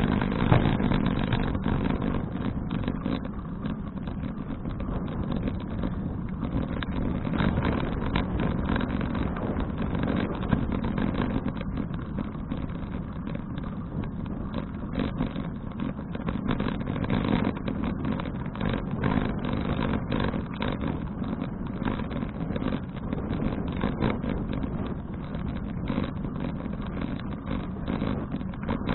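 Steady wind and road rumble picked up by an action camera riding along on a bicycle, with many small rattles and clicks throughout.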